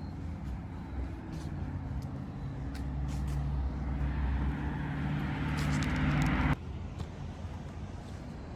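A passing motor vehicle's engine, growing louder as it approaches, then cut off abruptly about six and a half seconds in, leaving quieter background noise.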